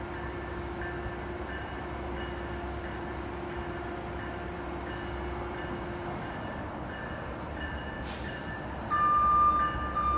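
Train running through a station with a steady rumble and hum, over a faint high ding that repeats about twice a second. About nine seconds in, a loud steady high tone begins.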